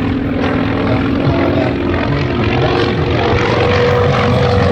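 Grumman F4F Wildcat's radial engine and propeller droning steadily in flight, growing slightly louder toward the end.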